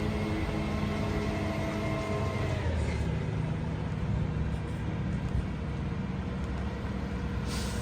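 Freightliner EconicSD garbage truck's engine running at raised speed for the McNeilus rear loader's packing cycle, its pitch dropping and settling to idle about two and a half seconds in. A short hiss of air comes near the end.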